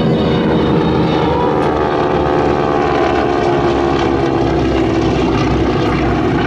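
Piston-engined propeller aircraft in flight, a steady engine drone whose pitch falls slowly as it passes.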